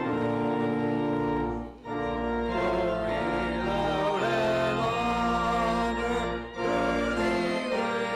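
Church organ playing sustained chords, in phrases with short breaks about two seconds in and again about six and a half seconds in.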